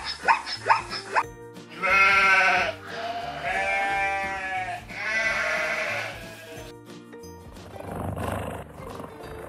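Sheep bleating three times, long wavering calls about a second apart, over background music. A run of short rising animal calls comes in the first second.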